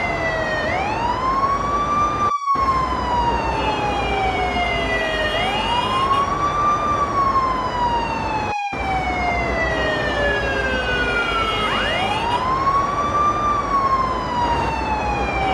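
Ambulance siren in a slow wail: each cycle rises quickly, then falls slowly over about three seconds, about three cycles in all, over a steady background hiss. The sound cuts out for a split second twice.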